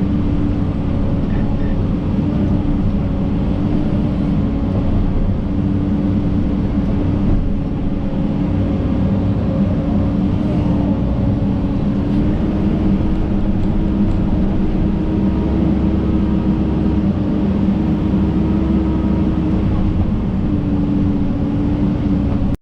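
John Deere 130G excavator's diesel engine running steadily under work, with a strong steady drone whose pitch shifts slightly now and then. It cuts off suddenly at the end.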